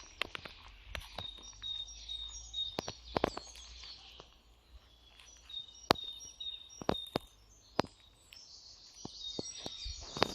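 Small birds chirping, short high notes repeated again and again, with footsteps on the woodland floor making sharp snaps and crackles; the snaps are the loudest sounds.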